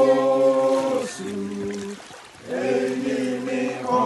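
Voices singing a hymn, holding long notes, with a brief break a little past halfway before the singing picks up again.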